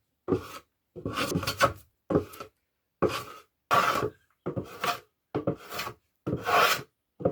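Hand plane shaving the protruding board edges of a wooden beehive super flush, in about nine rasping strokes with short pauses between them.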